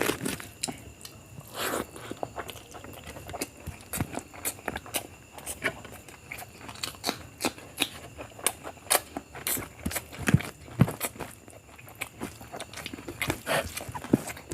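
Close-up eating sounds of someone eating biryani by the mouthful: wet chewing and lip smacking with irregular sharp clicks and crunches.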